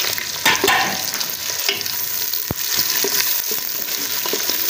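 Chopped onion frying in hot ghee with whole spices and garlic, sizzling steadily while it softens, with scattered clicks of stirring against the pot.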